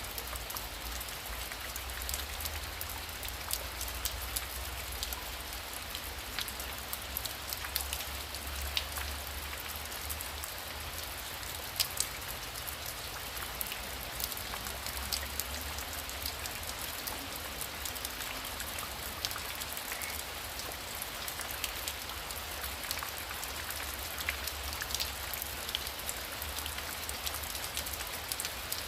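Heavy rain falling steadily: an even hiss with many sharp, separate drop taps over it and a low rumble underneath.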